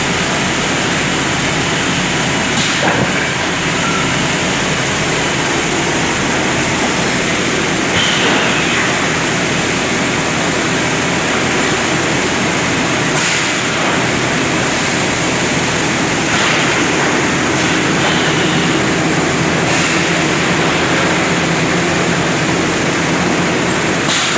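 Shot blasting machine running while it blasts paving and curb stones: a steady, loud mechanical noise of abrasive hitting stone, with a sharp knock every few seconds.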